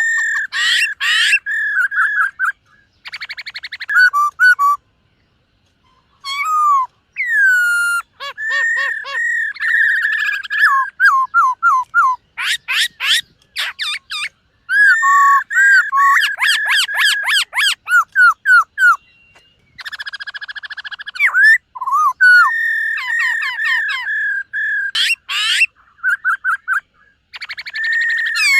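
Black-throated laughingthrush singing: loud, varied phrases of clear whistles, quick repeated notes and sweeping slides, delivered in bursts with short pauses between them.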